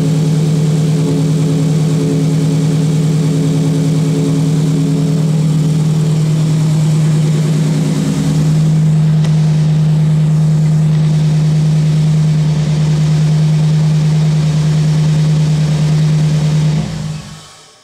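Nissan KA24DE 2.4-litre four-cylinder engine idling steadily through an aftermarket cat-back exhaust, running with no knocks or ticks. It gets slightly louder about halfway through, then is shut off near the end and dies away.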